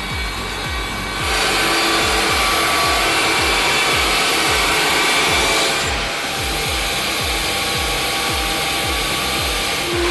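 Bandsaw blade cutting through wood: a loud, steady rasping hiss that rises about a second in and eases a little about six seconds in, over background music with a steady bass beat.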